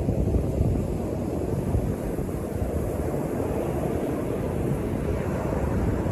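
North Sea surf at a beach, a steady low rumble of breaking waves, mixed with wind buffeting the microphone.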